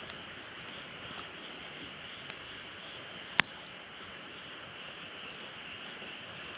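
Wood fire burning in a fire stand, crackling with a few faint ticks and one sharp loud pop a little past halfway, over a steady high-pitched hiss.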